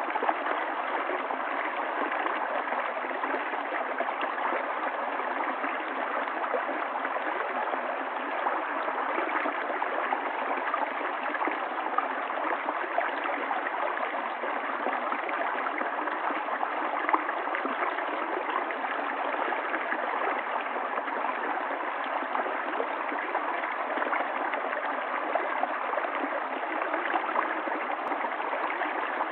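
Water of a stream running steadily, an even rush without deep rumble or high hiss.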